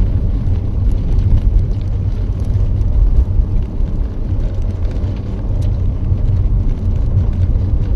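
Inside a car driving slowly on ice and packed snow with tire cables fitted: a steady low rumble of tires and road, with faint scattered clicks.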